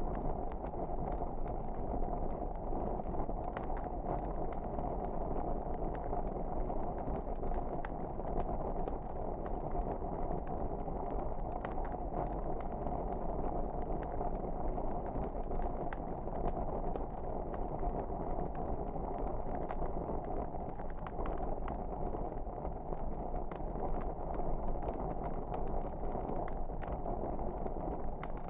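Log fire burning: a steady low rush with scattered small crackles and pops throughout.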